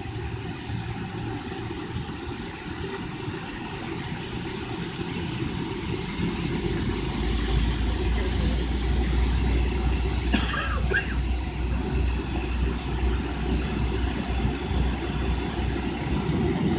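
Cabin noise aboard a McDonnell Douglas MD-82: the low rumble of its rear-mounted Pratt & Whitney JT8D jet engines swells and gets louder about halfway through, with a brief clatter a few seconds later.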